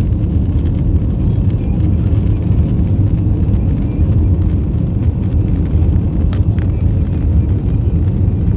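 Steady low rumble of an airliner's engines and airflow heard from inside the cockpit in flight.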